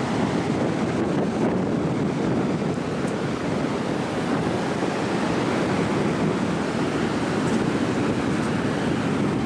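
Strong wind buffeting the microphone in a steady loud rush, with ocean surf beneath it.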